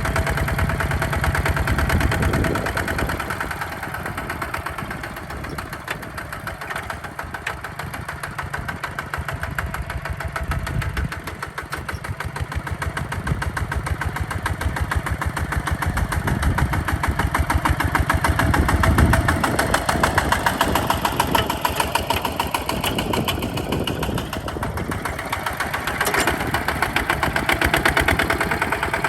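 Hinota HG Gold 155 DI tractor's direct-injection diesel engine running steadily while plowing mud, its rapid even firing growing quieter for a while and then louder again later on.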